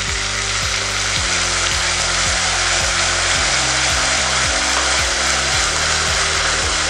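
Freshly ground onion paste frying in hot ghee, giving a loud, steady sizzle as it is stirred.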